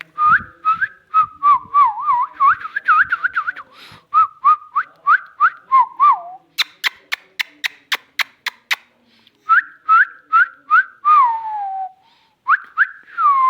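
Pet parrot whistling a fast string of short, sliding notes, about three a second, in several runs with short pauses; a quick series of sharp clicks comes in the middle.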